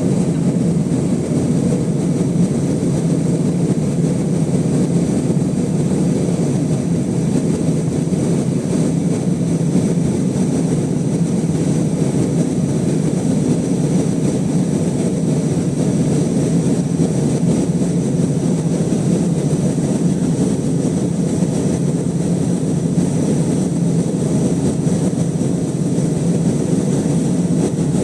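Cabin noise inside an Airbus A320 with two CFM56-5A3 engines, heard from a rear seat: an even, low-pitched engine and airflow noise with a faint high whine, steady throughout with no change in level.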